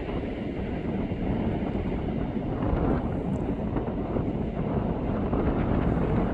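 Strong wind buffeting the microphone, a steady low rumble with no let-up.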